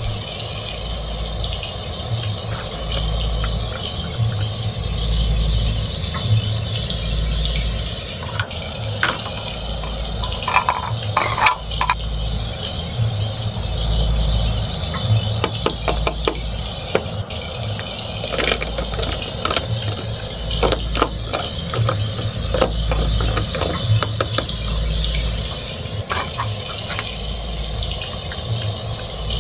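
Plastic toy-kitchen pieces, a toy pan, lid and play food on a toy cooktop, clicking and tapping as they are handled, in clusters through the middle and latter part. Under them runs a steady hiss with a low throb about every two seconds.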